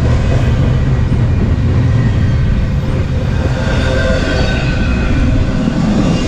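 Double-stack intermodal train's loaded well cars rolling past: a steady, loud rumble of steel wheels on rail.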